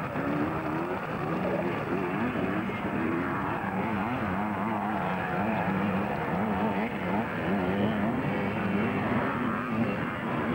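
Several vintage 250cc motocross bikes racing together, their engines revving up and down in overlapping, wavering tones as the riders work the throttles.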